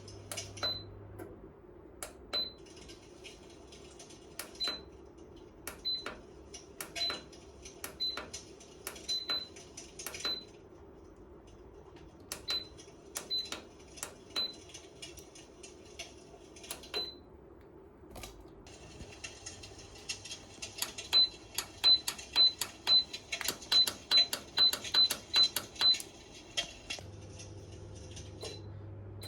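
Buttons on a Lucia III fireplace-style electric fan heater's control being pressed, each press a click with a short high beep, spaced a second or more apart. About two-thirds of the way in comes a quick run of about ten presses and beeps, all over a steady low hum.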